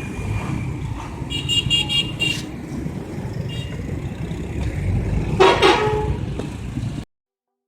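City street traffic: a steady low rumble of vehicles with car horns honking, one held for about a second around one and a half seconds in and a short toot a little later. A louder blast comes at about five and a half seconds, and the sound cuts off suddenly about seven seconds in.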